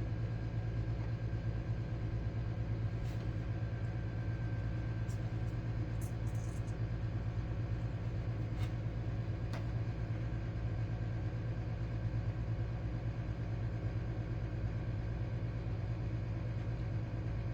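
Steady low hum with no change in level, with a few faint light clicks scattered through it.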